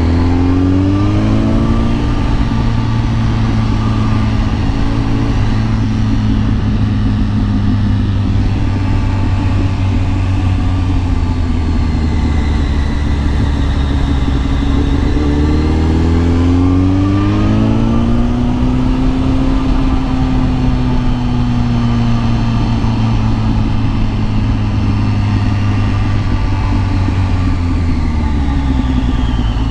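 Kawasaki ZX10R sport bike's inline-four engine under way. The revs rise at the start and again about halfway, hold steady in between, and drop near the end. A steady rush of wind noise runs underneath.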